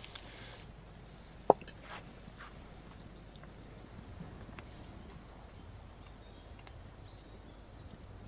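Quiet outdoor background with one sharp knock about a second and a half in, a few light ticks, and some faint high chirps from birds.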